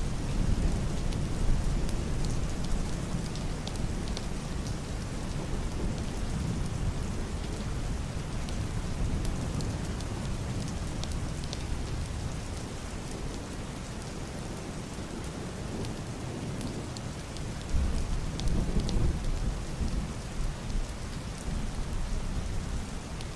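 Heavy rain on a wooden roof and glass window: a steady hiss with scattered sharp ticks of drops. Deep, muffled distant thunder rumbles beneath it, swelling near the start and again about three-quarters of the way through.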